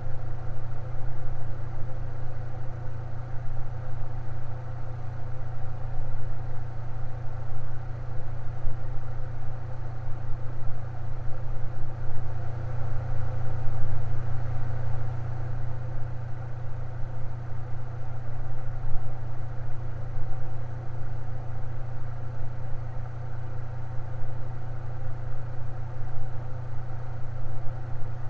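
Electric fan running steadily: a low, even hum with a faint whir above it.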